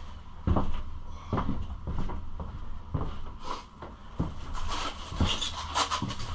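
Hard plastic dirt-bike body parts being handled and set down: a series of light knocks, about seven, with some rustling and scraping in the second half.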